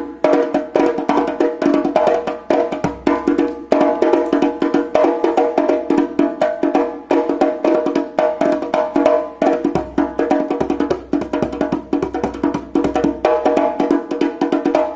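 A rope-tuned djembe played by hand in a fast, continuous rhythm of strikes, each ringing with a clear drum tone. The new head is still at its shipped tension, with the ropes not yet pulled tighter.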